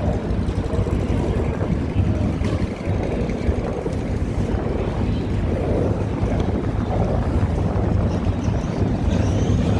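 Wind buffeting the microphone over a steady low rumble of vehicles at an outdoor car meet.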